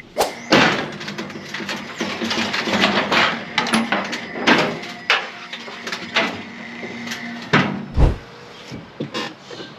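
Irregular clattering knocks and handling noises, ending in a heavy low thump about eight seconds in, as of a vehicle door being shut.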